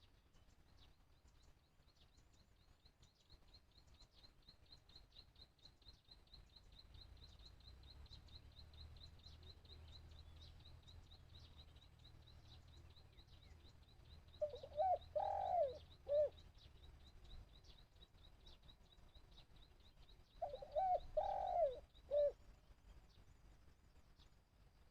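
Spotted dove cooing: two loud three-note coo phrases, about six seconds apart, in the second half. A faint, fast, high-pitched ticking trill runs through the first half.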